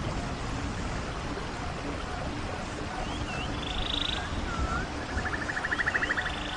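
Rainforest ambience: a steady hiss of rain, with animal calls over it in the second half. There are a few short curved chirps and several rapid pulsed trills, the longest lasting about a second near the end.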